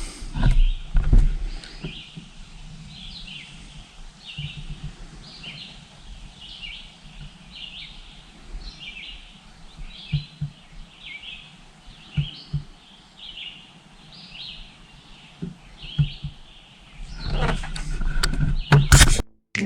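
A bird chirping over and over, short high notes about once or twice a second, with a few dull knocks and a louder clatter near the end.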